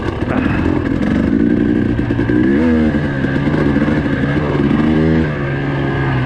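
Four-stroke dirt bike engine under way, its pitch rising and falling as the throttle is worked, with a brief drop in level a little past five seconds.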